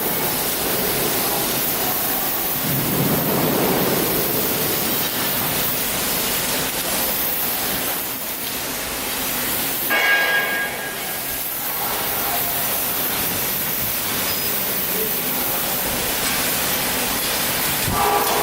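Steady, loud hiss of a running CNC panel saw, with a brief higher whine about ten seconds in.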